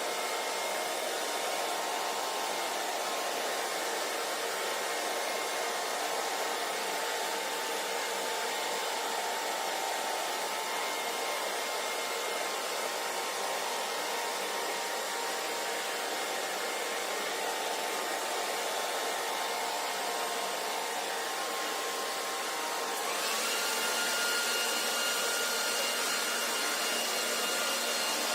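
Hair dryer running steadily, a rushing blow with a faint whine in it. About 23 seconds in, the whine steps up in pitch and the sound gets a little louder.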